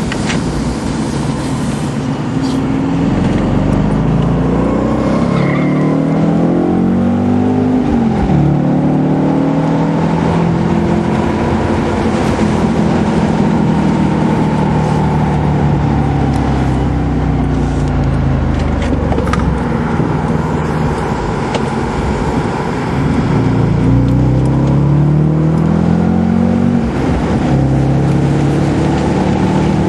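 Road car's engine heard from inside the cabin, pulling hard at speed on a race track. Its pitch climbs, drops sharply about eight seconds in as the revs fall, then holds high, with another dip and climb about two-thirds of the way through.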